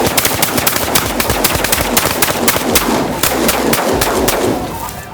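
Several shotguns firing a rapid, overlapping volley at a flock of snow geese, dozens of shots packed close together that thin out and stop about four and a half seconds in. A dense clamour of goose calls runs underneath the shooting.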